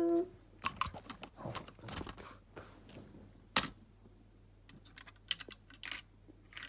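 Small plastic toy pieces being handled, a run of light clicks and rattles with one sharp click about three and a half seconds in.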